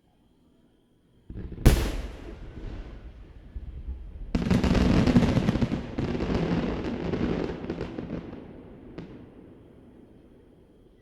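Fireworks going off: a sharp boom about two seconds in with a rumbling tail, then from about four seconds a dense run of crackling and booms that fades away over the last few seconds.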